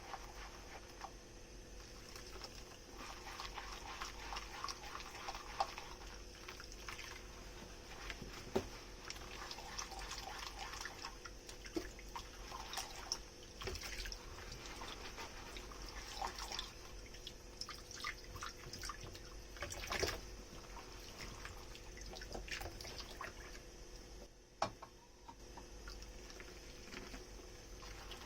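Dishes being hand-washed at a kitchen sink: soft wet sponge and water sounds with scattered light clinks and a few louder knocks of tableware.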